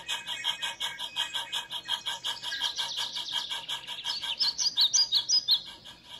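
Birds chirping, with a cluster of chirps about two-thirds of the way in, over a fast, even pulsing.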